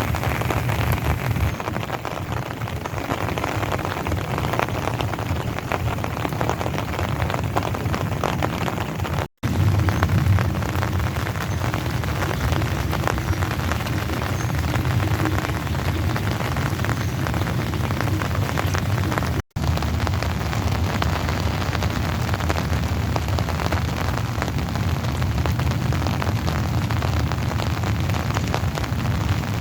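Steady heavy rain falling in a continuous dense hiss, with a steady low rumble under it. The sound drops out briefly twice, about a third and two-thirds of the way through.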